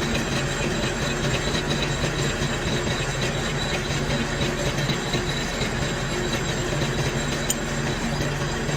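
Metal-turning lathe running steadily: a dense, even mechanical noise over a low hum.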